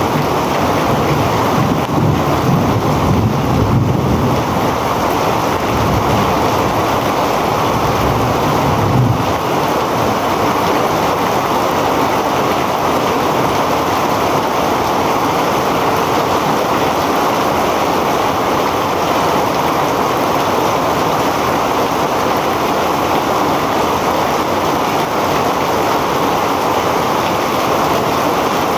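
Heavy rain pouring down steadily in a dense, even hiss. For about the first nine seconds a low rumble of wind buffeting the microphone rides under it, then drops away.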